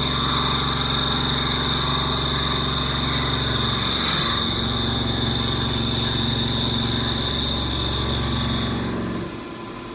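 Haas Mini Mill 2 CNC mill taking a high-feed cut with a single-flute Iscar end mill: a steady cutting noise with a high whine over a low hum. The cut ends about nine seconds in, and the sound drops to a quieter machine hum.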